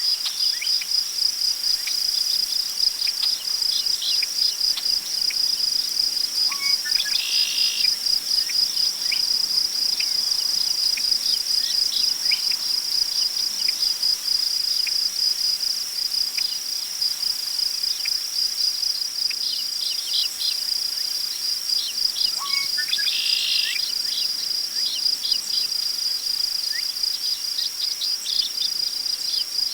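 Crickets chirping steadily in a fast, even pulse, with a bird calling briefly twice, about a quarter of the way in and again past the two-thirds mark, over faint prairie wind in grass.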